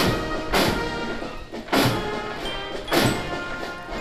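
Military band playing a march: sustained brass tones over loud drum and cymbal strikes about every half second to a second.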